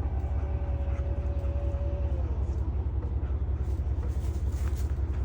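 Vehicle engine running steadily with a low, fast, even pulse, and a faint whine that fades out about two seconds in. A few light clicks come near the end.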